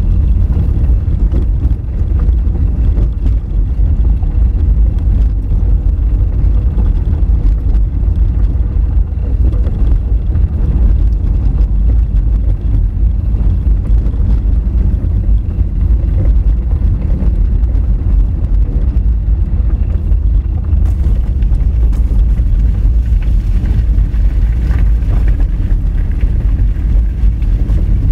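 Honda Fit driving over a rough, rocky dirt road: a loud, steady low rumble of tyres, suspension and engine, turning harsher about two-thirds of the way through.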